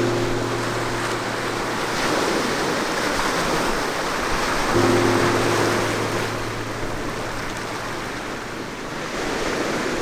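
Ocean surf washing onto the shore, swelling and easing, with background music holding low sustained chords.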